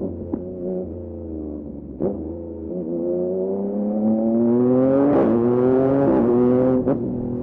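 Yamaha MT-09 SP's inline three-cylinder engine through an aftermarket Dominator exhaust, accelerating with the pitch climbing from about three seconds in and a quick break around five seconds, as at a gear change. The revs then drop near the end with a sharp crack.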